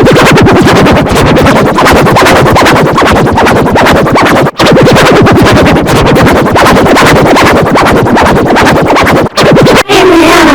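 Very loud, heavily distorted electronic sound with a fast buzzing pulse, like a synthesizer. It cuts out briefly about four and a half seconds in and twice near the end.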